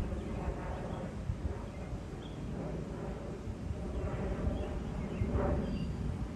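Outdoor airfield ambience: low rumble and wind on the microphone, with a few faint bird chirps.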